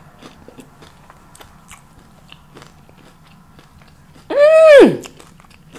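A person chewing crunchy fried avocado egg rolls: soft scattered crunches and mouth clicks. About four seconds in comes a loud closed-mouth "mmm" of enjoyment, about half a second long, that rises and then falls in pitch.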